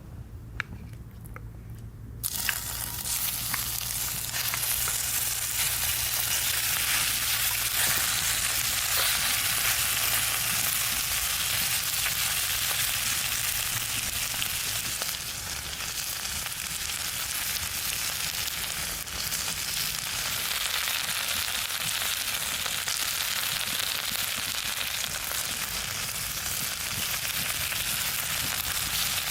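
Meat sizzling in a hot pan. It starts suddenly about two seconds in, after a few light clicks, and then holds as a steady, loud frying hiss.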